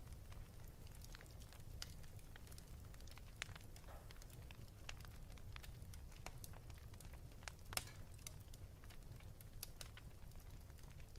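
Wood fire in a fireplace crackling, with scattered sharp pops and snaps, one louder snap near the end, over a low steady rumble.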